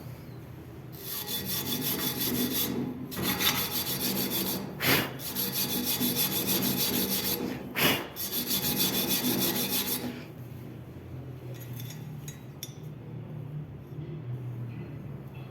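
Arc welding: the welding arc crackles and hisses steadily for about nine seconds, with brief breaks or sharp pops twice in the middle, then stops.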